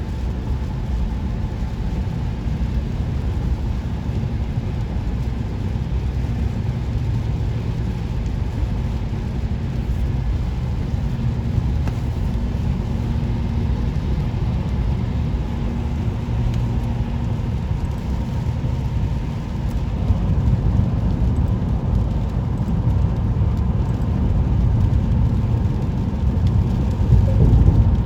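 Steady road and engine noise heard inside a moving car: a continuous low rumble that grows a little louder in the last several seconds.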